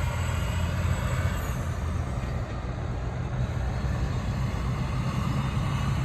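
Semi-truck's diesel running steadily: a low, even rumble with a hiss of noise above it.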